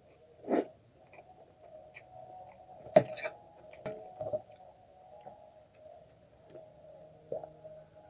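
A person eating egg chow mein: a handful of separate short mouth and eating sounds, smacks and clicks, the loudest about three seconds in, over a steady faint hum.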